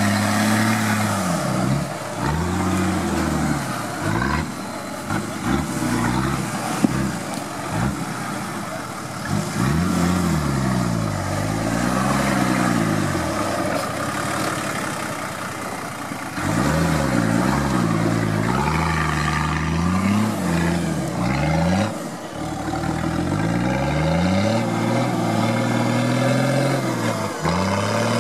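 Nissan Patrol off-roader's engine revving hard and dropping back over and over under load as it climbs a steep dirt slope, the pitch swinging up and down every second or two. One sharp knock about seven seconds in.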